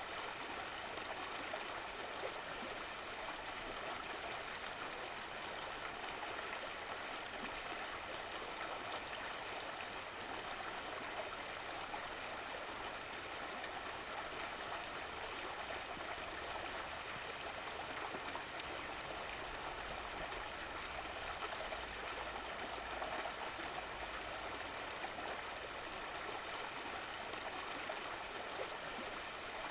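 Running stream water, a steady babbling and trickling flow.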